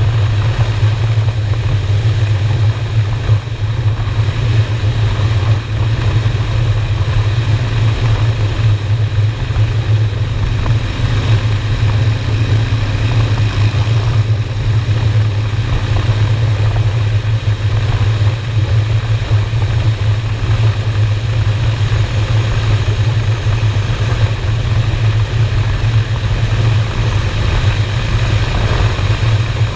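V-twin motorcycle engine running at a steady cruise, its exhaust a constant low drone with no shifts or revving, under an even rush of road and wind noise.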